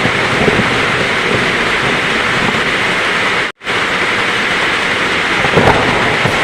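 Heavy rain falling steadily, a dense hiss with low rumbling of thunder underneath that swells a little near the end. The sound cuts out for a split second about halfway through.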